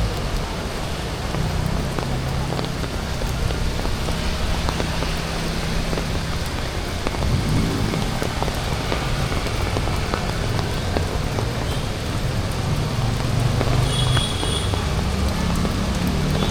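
Steady monsoon rain falling, with the low hum of street traffic underneath.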